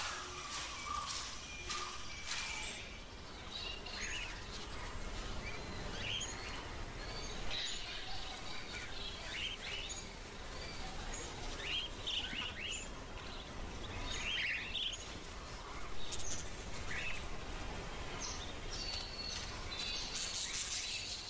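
Outdoor ambience of scattered short bird chirps over a steady background hiss.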